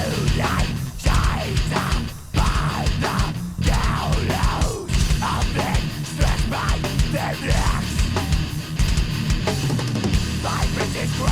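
Metalcore band playing an instrumental passage: distorted electric guitars over a drum kit, with no vocals.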